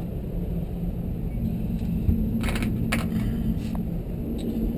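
A steady low hum, with a few light clicks and clinks of a screwdriver and screws against the water heater's metal housing, three of them close together in the middle.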